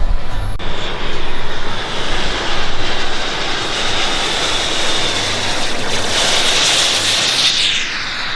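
Turbine engines of RC model T-33 jets flying past: a steady high whine over a rushing roar that swells about three-quarters of the way in, then falls in pitch near the end as they pass.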